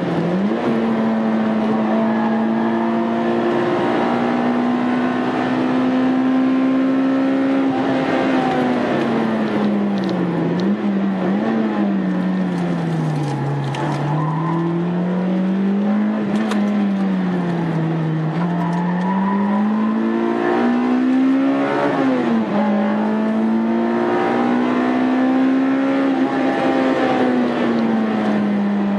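Honda Integra Type R's four-cylinder VTEC engine driven hard on track, its pitch holding high, then falling and climbing several times in the middle as the car brakes, shifts and accelerates, before settling high again.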